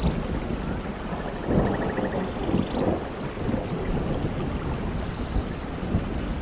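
Steady rain with low rolling thunder; the rumble swells about a second and a half in.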